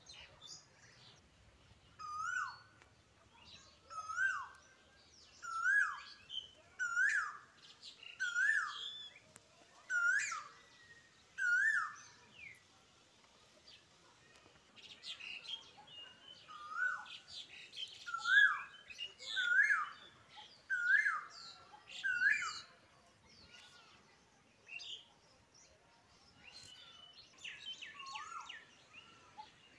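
A bird repeats a short hooked call about every one and a half seconds, in two runs with a pause between them. Fainter high chirps sound alongside.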